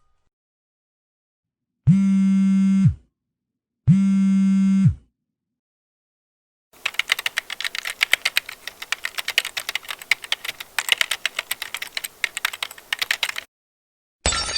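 Two one-second buzzer tones, a second apart. Then about seven seconds of rapid typing on a computer keyboard, many fast key clicks. A sharp clink starts right at the end.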